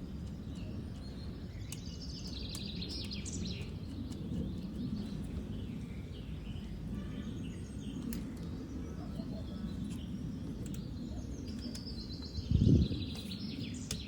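Birds chirping in two short bouts over a steady low background rumble, with a single dull thump near the end.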